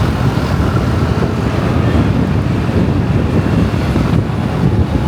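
Wind buffeting the microphone on a moving motorcycle, a steady rushing rumble with the bike and road noise underneath.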